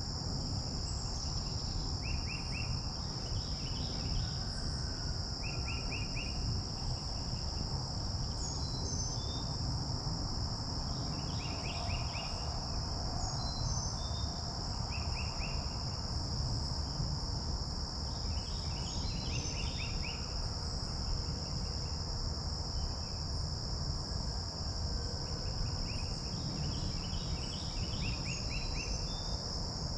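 A steady high-pitched insect chorus drones without a break. Songbirds call over it with short clusters of rapid notes every few seconds and scattered brief high chirps. A low steady rumble lies underneath.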